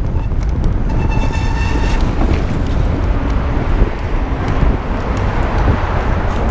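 Wind noise on the microphone of a moving electric bike, with road traffic around it. About a second in, a steady high tone with overtones sounds for about a second.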